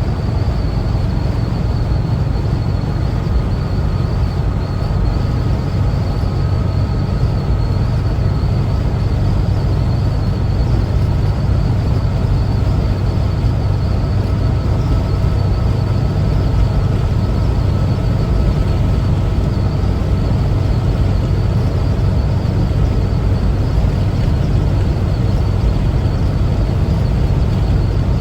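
Air-cooled Type 4 flat-four engine of a 1974 Volkswagen Type 2 Westfalia camper running steadily under way, with heavy low rumble and road noise and a faint steady whine on top. Level and pitch stay even throughout, as at a constant cruising speed.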